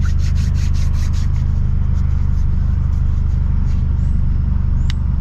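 Straight-piped, tuned BMW 328i's turbocharged four-cylinder running with a loud, steady low exhaust drone inside the cabin, with a rapid string of crackles in the first second.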